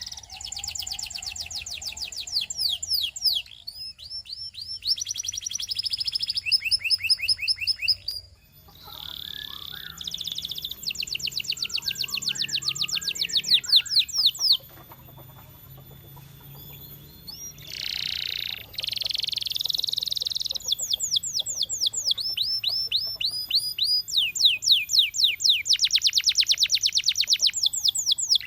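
Russian canary singing in long rapid trills, runs of quickly repeated high sweeping notes. The trills are broken by short pauses and by a drawn-out note partway through.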